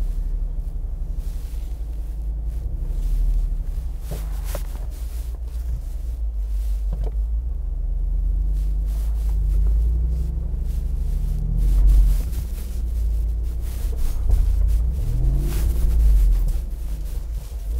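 The 6.4-litre V8 of a Jeep Wrangler Rubicon 392 running at low revs while crawling up a steep rock ledge. The revs rise briefly a couple of times in the second half, and there are a few knocks.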